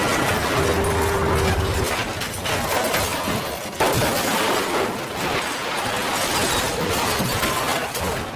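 Continuous crashing and clattering, with a sudden loud impact about four seconds in.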